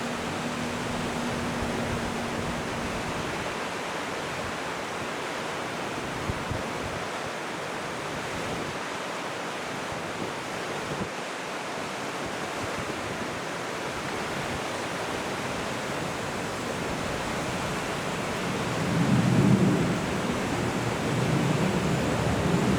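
Steady wind and water noise at an inlet, as heard from a camera filming boats. A faint hum fades out in the first few seconds, and a louder low rumble swells about nineteen seconds in.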